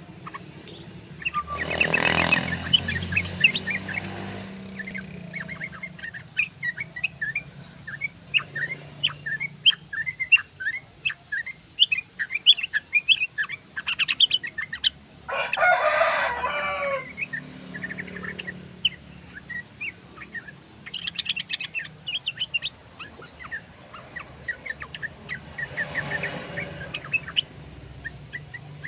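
A yellow-vented bulbul (trucukan) singing a long run of quick, chattering chirps. A rooster crows three times behind it, near the start, in the middle and near the end.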